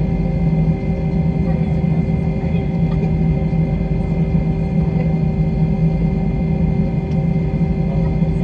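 Airliner jet engines and cabin noise: a steady, unchanging drone with several held tones over a low rumble.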